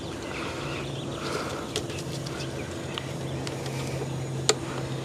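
Light clicks and ticks of plastic trim clips being worked loose by hand, with one sharper click near the end, over a steady low hum.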